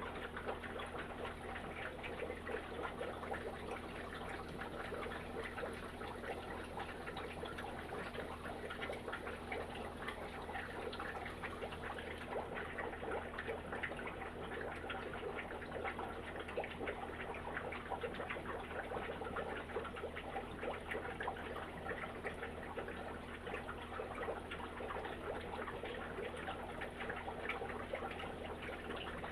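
Aquarium water trickling and bubbling steadily, with a low steady hum underneath.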